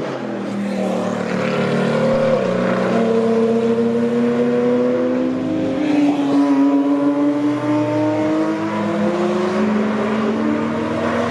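Racing car engines running at speed, with several overlapping engine notes gliding slowly up and down in pitch and a sudden shift about two seconds in.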